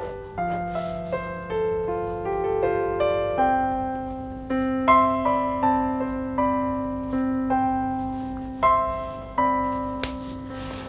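Background piano music: a slow melody of single notes that each ring and fade, over held low notes. A couple of brief sharp taps come near the end.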